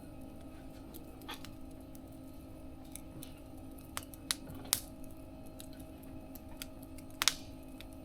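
Wood fire crackling in a mesh fire-pit stove: sharp pops and snaps over a steady low background, three close together around the middle and a loud double pop near the end.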